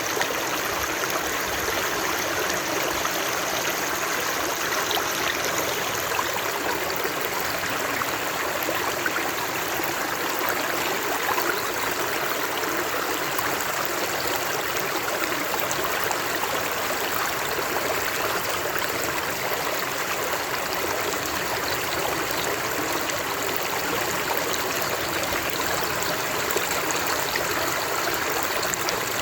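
Flowing water of a stream, a steady babbling rush with fine gurgling detail.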